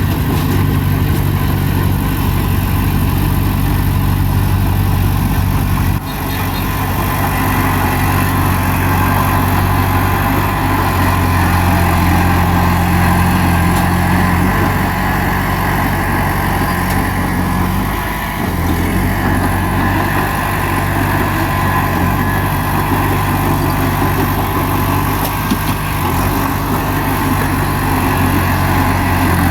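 Bulldozer's heavy diesel engine running steadily, its note dipping briefly a little past halfway through.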